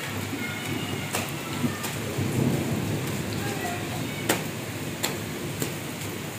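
Steady rain falling, with a few sharp ticks and a low rumble that swells about two seconds in.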